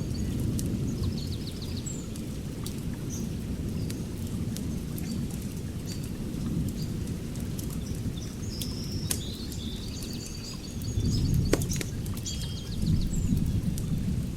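Wood fire in an outdoor fire pit burning with a steady low roar and scattered sharp crackles and pops, one louder pop about two-thirds of the way through. Birds chirp in short trills in the background.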